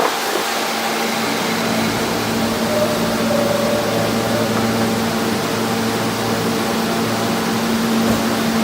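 Steady whirring hum of a subway car's rooftop air-conditioning units, with a low steady hum tone that sets in about a second in.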